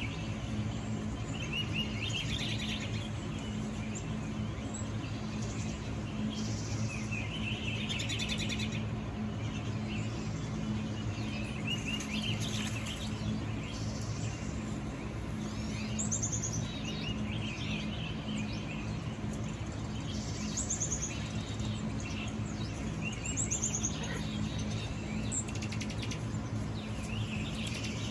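Recorded birdsong from a nature video playing through an iPhone's speaker: short phrases of chirps and song every few seconds.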